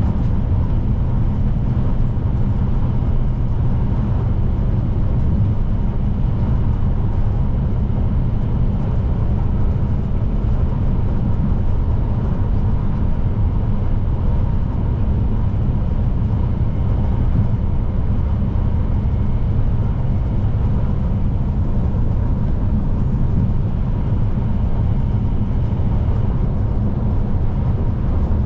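Scania P310 truck's diesel engine and road noise droning steadily as it drives at an even speed, with no gear changes.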